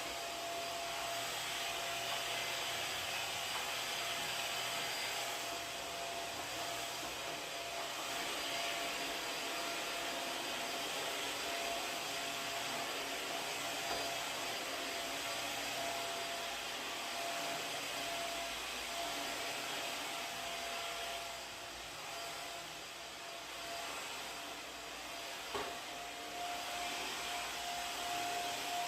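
Vacuum cleaner running steadily with a constant whine. It eases off slightly about three quarters of the way through, and there is a single click near the end.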